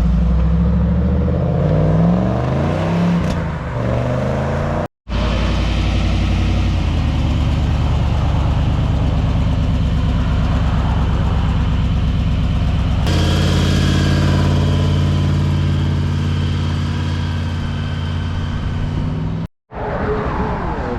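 Car engines running in three short cuts with abrupt breaks between them, about five seconds in and again near the end. In the first the pitch rises and falls as the engine is revved; the later two hold a fairly steady pitch.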